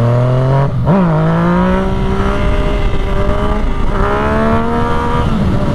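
Yamaha motorcycle engine revving hard through a clutch-up wheelie, with wind rushing over the microphone. The pitch climbs steadily, dips sharply about a second in and again about four seconds in, then falls off near the end.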